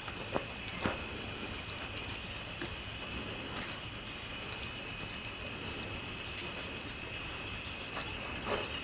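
A cricket chirping in a steady, rapid, even pulse of high notes, with a few faint clicks.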